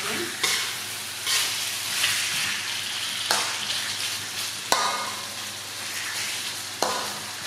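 Fish pieces in lemongrass paste sizzling in a metal wok while a metal ladle stirs them, scraping the pan. There are several sharp clanks of the ladle against the wok, some of them ringing briefly.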